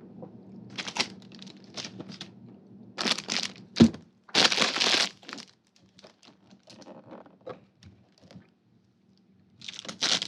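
Snack packaging crinkling and crackling in irregular bursts, with a sharp knock about four seconds in and a longer stretch of crinkling right after it. A faint low hum runs underneath.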